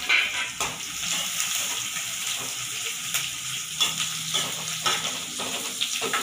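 Sliced onions, curry leaves and dried red chillies sizzling in hot coconut oil in a metal kadai, with a ladle stirring and scraping against the pan a few times.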